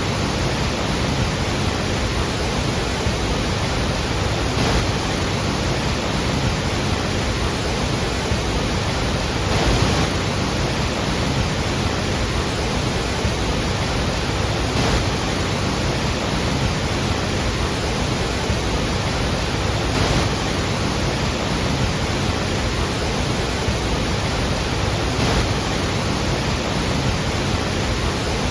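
Steady heavy rush of a large waterfall, water falling continuously, with slight swells about every five seconds.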